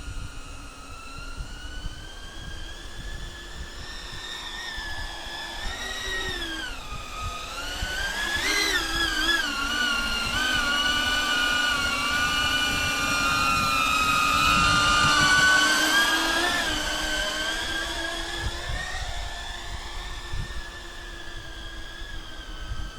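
Airscaphe X4 Pro caged quadcopter drone's propellers whining, their pitch dipping and rising as it manoeuvres and growing louder toward the middle before easing off. Wind buffets the microphone underneath.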